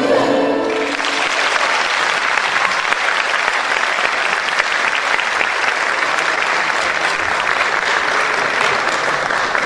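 The ensemble's last note dies away in the first second, then an audience applauds steadily.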